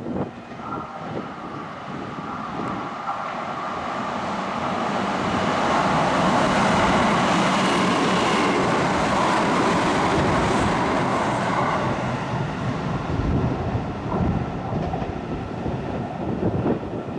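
Kintetsu express train, a 1253-series set coupled to a 5200-series set, passing through a station at speed without stopping. The rush of wheels and motors builds, is loudest in the middle, then eases off, with clacks of wheels over rail joints in the later seconds.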